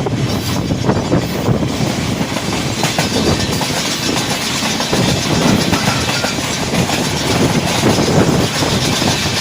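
Rehman Baba Express passenger train running on the rails: a loud, steady rumble of wheels with rapid clacking over the rail joints.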